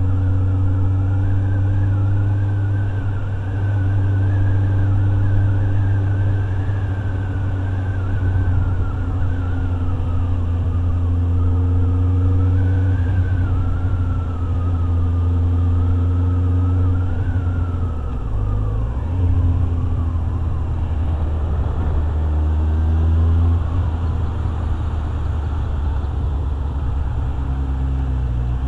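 Motorcycle engine running at road speed, with a wavering high whistle over it for much of the time. The engine note changes around two-thirds of the way through and the revs rise before settling again.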